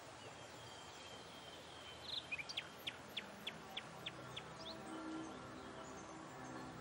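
A small bird giving a quick run of about eight short, high chirps, roughly three a second, heard faintly. Soft music notes come in near the end.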